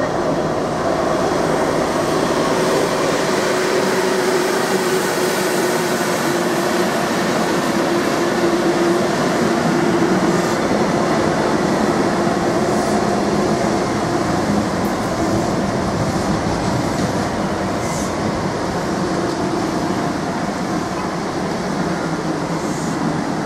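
Class 90 electric locomotive and its Mk3 coaches rolling along the platform, slowing as they draw in: a steady rumble of wheels on the rails with a faint hum, easing a little in the second half. A few brief high squeaks come from the wheels or brakes.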